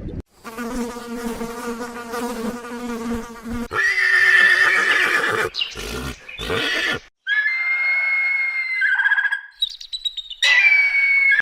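A string of different animal calls edited one after another, with abrupt cuts between them: a steady buzzy drone for about three and a half seconds, then shorter calls, and a long high-pitched call in the second half.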